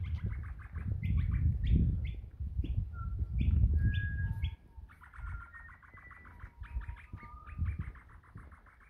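Birds chirping: rapid runs of short repeated notes with a few held whistled tones, densest in the second half. A low rumble on the microphone runs through the first half and stops about four and a half seconds in.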